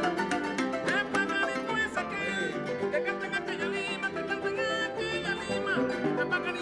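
Son jarocho string trio of harp, jarana and requinto playing an instrumental passage between sung verses, with plucked and strummed strings.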